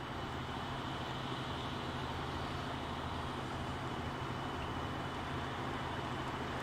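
Steady low hum of an idling engine over an even hiss of outdoor noise, with a faint steady high whine.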